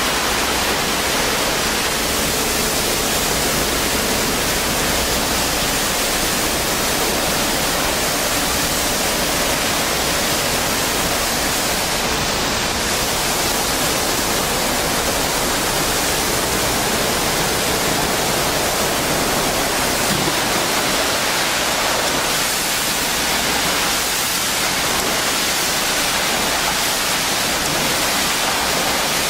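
Steady, loud hiss of high-pressure water spraying from an automatic truck wash.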